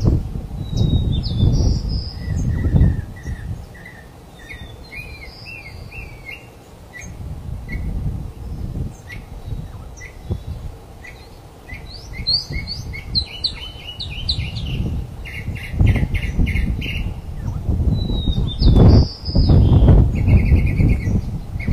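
Small birds chirping repeatedly in short rising and falling notes, over an uneven low rumble that swells and fades and is loudest near the end.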